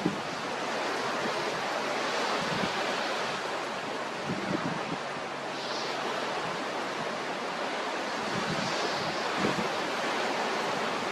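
Strong wind buffeting the microphone over a rough, choppy sea: a steady rushing noise with irregular low thumps from the gusts.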